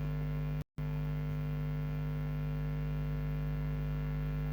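Steady electrical mains hum with its overtones, with no speech. It cuts out completely for a split second under a second in.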